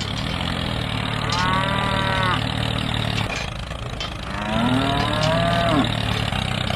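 A steady low engine-like drone, with a cow mooing twice above it: two drawn-out calls about a second in and about four seconds in, the second one bending in pitch.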